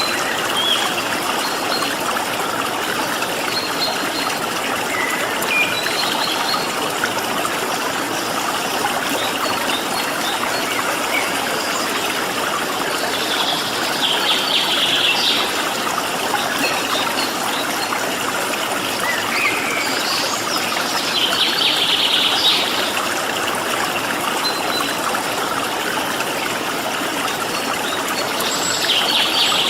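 Steady rush of a flowing stream, with small birds chirping over it. Three bursts of rapid, high chattering song come about halfway through, about two-thirds in, and at the end.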